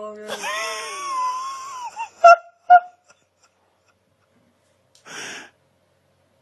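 An animal calling: a long wavering cry, then two short, loud, sharp calls about half a second apart, and a short breathy hiss near the end.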